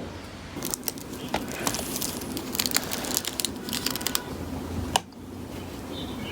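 Crinkling and rustling with scattered sharp clicks, breaking off abruptly about five seconds in.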